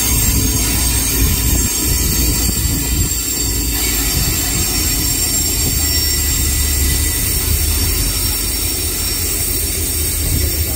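Train running close by: a steady low rumble with a hiss of high noise and several thin, high-pitched squealing tones held throughout.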